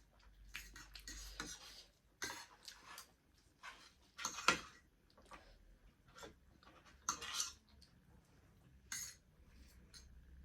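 Cutlery scraping and clinking against a plate during a meal of noodles and momo: a string of short, irregular scrapes and clicks, the loudest about halfway through.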